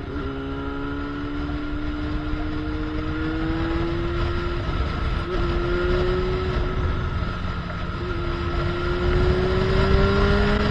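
Yamaha FZ6's inline-four engine through an SC Project aftermarket exhaust, pulling under acceleration. The note climbs steadily, with two brief breaks, about five and eight seconds in, where it dips and climbs again, as at gear changes.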